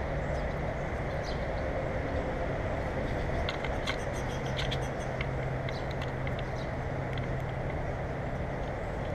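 Steady low rumbling background noise with a faint hum, like distant traffic. A flurry of short, high chirps from small birds comes from about three to five seconds in.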